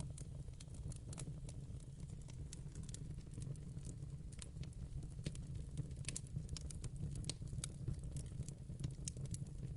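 Wood fire burning in a fireplace: a steady low rumble of flames with irregular sharp crackles and pops, some in quick clusters.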